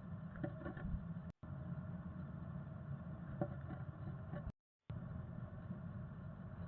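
Steady low rumble and hiss picked up by a bird box camera's microphone, with a few faint soft taps. The sound cuts out completely twice: briefly at about a second and a half in, then for about half a second a little past the middle.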